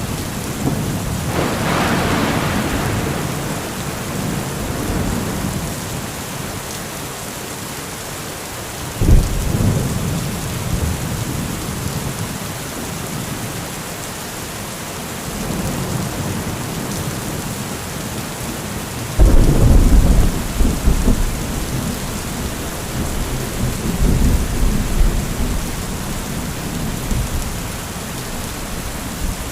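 Heavy thunderstorm: steady rain hiss with repeated rolling thunder. A rumble comes about two seconds in, a sudden crack about nine seconds in rumbles on, the loudest clap comes about two-thirds of the way through, and a last roll follows near the end.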